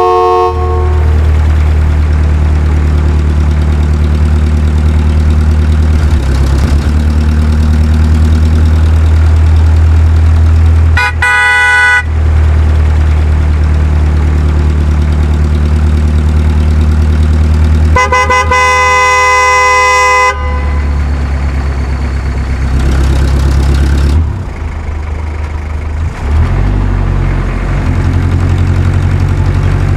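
Heavy vehicle engine running with a steady low drone, while a vehicle horn honks: a short honk about a third of the way in and a longer blast of about two seconds a little past the middle.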